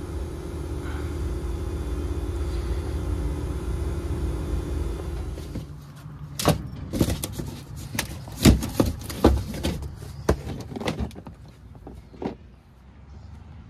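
Carrier GreenSpeed heat pump outdoor unit running with a steady hum, then cutting off about six seconds in, as the system with an inverter/compressor fault shuts down. A series of sharp knocks and clicks follows.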